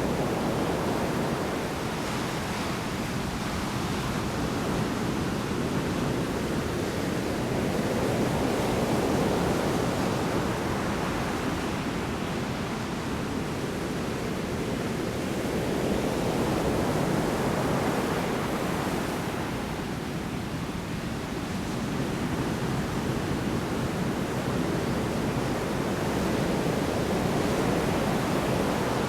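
Heavy surf from large storm waves breaking on the shore: a continuous wash that swells and ebbs every eight to ten seconds.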